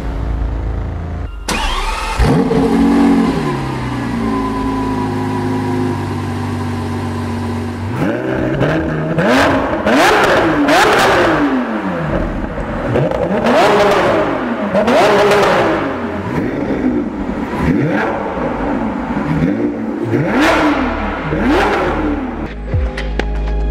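Lamborghini Aventador SVJ's naturally aspirated V12 being revved: one rev early on, a steadier stretch, then a long run of repeated revs whose pitch climbs and drops again and again.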